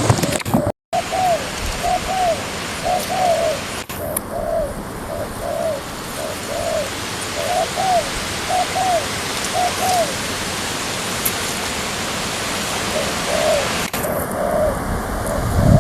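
Spotted dove (tekukur) cooing: a run of short, arched, rhythmic coos, about one to two a second, that breaks off about ten seconds in and starts again near the end, over a steady hiss.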